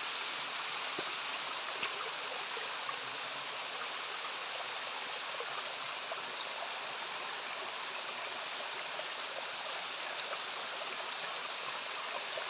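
Steady rush of water from a jungle waterfall and its streams, falling water running on without a break, with a few faint ticks.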